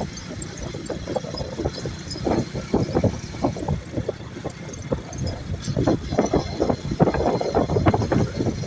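Running noise of a moving vehicle ridden along: a steady low rumble with irregular gusty bursts, strongest in the last few seconds.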